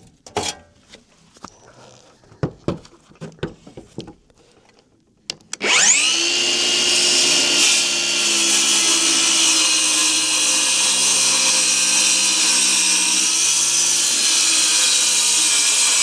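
A few knocks as wood is set up, then a circular saw spins up about five seconds in and runs steadily as it cuts through a wooden board.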